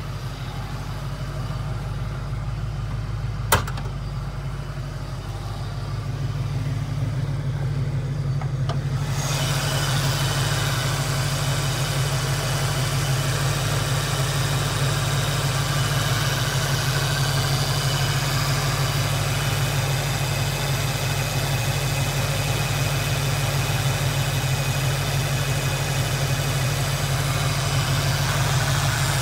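Ford 5.0 HO V8 of a 1988 Mustang GT idling steadily. A single sharp click comes about three and a half seconds in. From about nine seconds in the engine sound gets louder and brighter.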